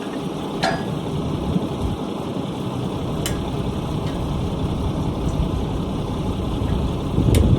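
Steady low rumbling noise with three short, sharp metallic clinks spread through it, from hand tools at work on a disc harrow's bearing assembly.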